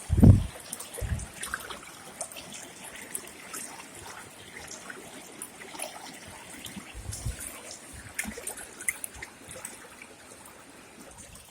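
Water trickling and dripping, with many small splashes and ticks. A heavy low thump comes just after the start, with weaker ones about a second in and near the middle.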